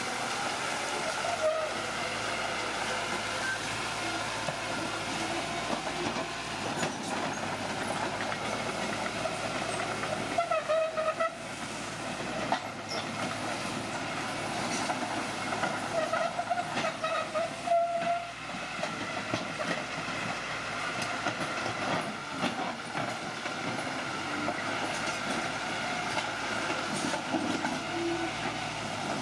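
Old crawler bulldozer working, its engine running under steady metallic clanking, with squeals from the steel tracks and running gear that come and go, strongest about a third of the way in and again past the middle.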